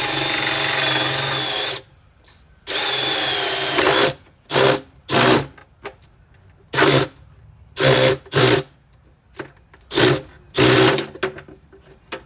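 Electric drill boring holes in a bucket. It runs steadily for about two seconds, stops, runs again briefly, then gives a string of short trigger bursts.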